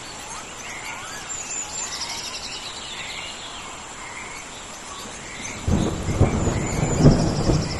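Rainforest rainstorm ambience: a steady wash of rain with birds chirping and a high, steady insect buzz. About two-thirds of the way in, a loud rumble of thunder rolls in and swells, peaking near the end.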